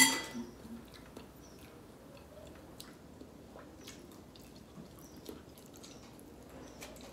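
Faint wet chewing and biting of ripe mango flesh, with small scattered clicks and squishes. A short sharp sound comes at the very start.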